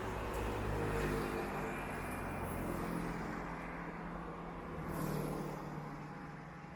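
A motor vehicle's engine running, with road traffic noise; the sound swells briefly about five seconds in.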